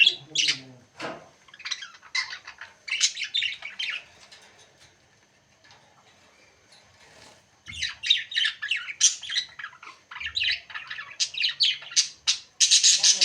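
Pet parrot squawking and chirping in quick runs of short, high calls, falling quiet for a few seconds in the middle before starting again.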